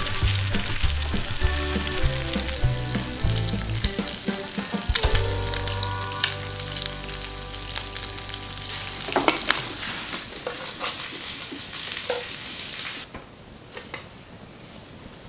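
Bacon and egg sizzling in an aluminium frying pan over an open fire, under country background music that ends on a long held chord about five seconds in. The sizzling cuts off suddenly near the end, leaving a few faint clicks.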